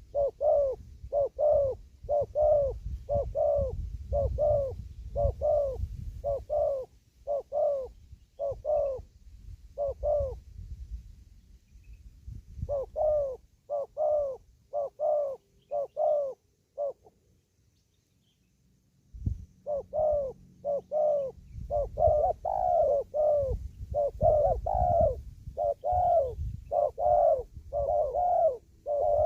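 Spotted dove cooing in a long run of short, evenly repeated coos over a low rumble. The coos stop for about two seconds past the middle, then start again and grow louder near the end.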